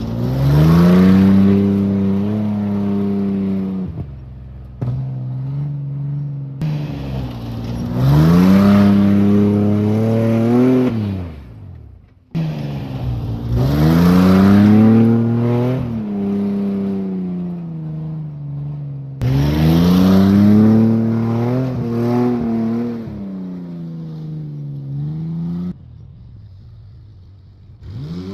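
Beater pickup truck engine with a leaking, half-removed exhaust, driven hard: the revs climb and fall off four times, with short lulls between.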